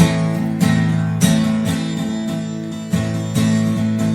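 Acoustic guitar strummed, playing the introduction to a song: ringing chords that start suddenly, with a strum about every half second.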